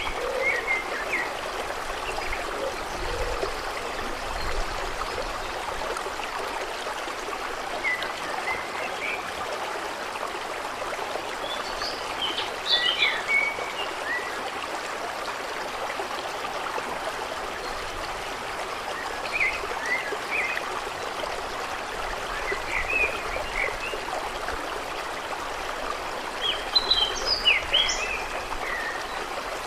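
Steady rush of flowing water, with small birds giving short chirping calls every few seconds, loudest near the end.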